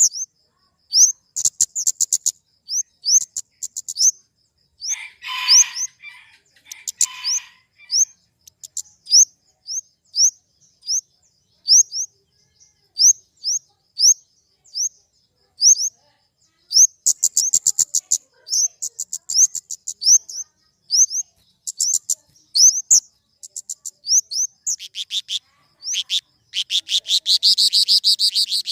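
Flowerpecker (kemade) calling: sharp, high, short chirps repeated once or twice a second, some in quick clusters. A harsher, lower call comes about five seconds in, and a rapid, dense run of notes near the end.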